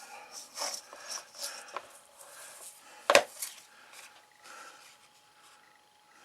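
Thin card scraped and rubbed in several short strokes, then a single sharp tap about three seconds in, followed by quieter rustling.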